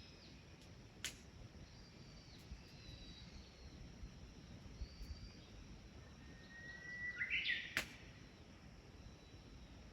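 Faint outdoor ambience with bird calls: thin chirps early on, then a long whistled note that rises into a brief louder trill about seven seconds in. Two sharp pops, about a second in and near the end.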